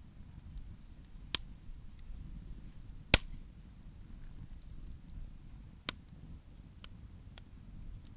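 Wood bonfire crackling, with a handful of sharp, irregular pops from the burning wood, the loudest about three seconds in, over a low steady rumble.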